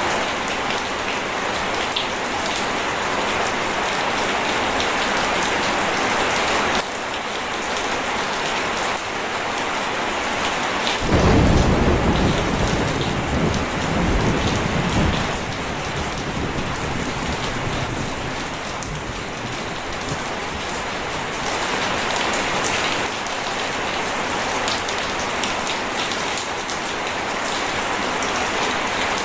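Steady rain falling, with a low rumble of thunder that starts suddenly about eleven seconds in and dies away over the next four or five seconds.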